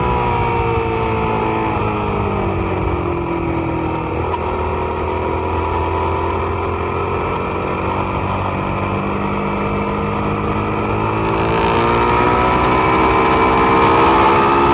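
Suzuki SV650's V-twin engine under way on a race track: the revs fall over the first few seconds as the bike slows, hold low through the middle, then climb again from about ten seconds in as it accelerates, with a rush of wind noise rising near the end.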